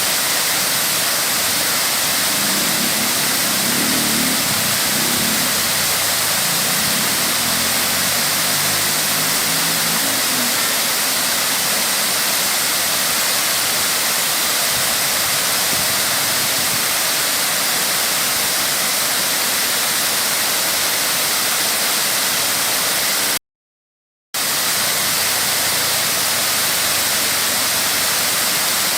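Waterfall: steady, loud rushing of falling water, with the sound cutting out completely for about a second roughly three quarters of the way through.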